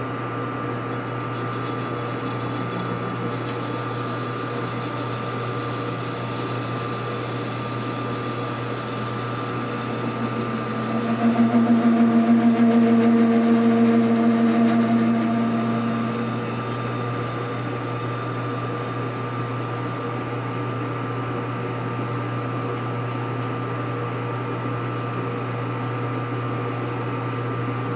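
Metal lathe running steadily with a hum while the cutter on the compound takes an angled 60-degree cut. About eleven seconds in, a louder pitched drone rises for about five seconds, then fades back.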